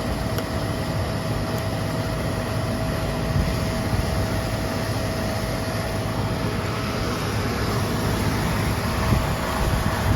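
Outdoor condensing unit of a central air conditioner running steadily, compressor and condenser fan going, with a steady hum through the noise. It is running on a newly fitted 30+3 dual run capacitor that replaced a burned-out one.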